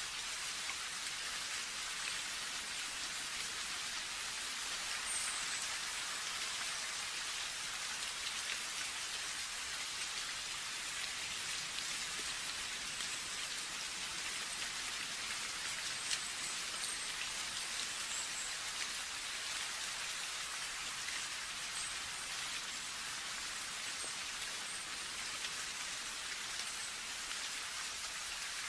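Steady rain: a dense, even hiss of falling drops, mostly in the upper range, with a few single drop ticks standing out.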